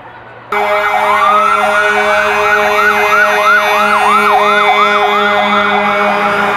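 Emergency vehicle siren starting suddenly about half a second in: a single rising wail, then a fast repeating yelp of about three sweeps a second, over steady underlying tones.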